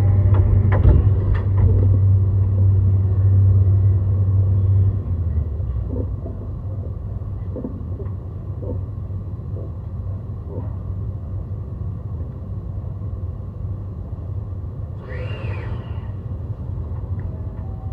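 Running noise of a JR East E131-600 series electric train: a steady low rumble of wheels on rail, with a few clicks at the start, dropping to a quieter level about five seconds in. A short tone rises and falls near the end.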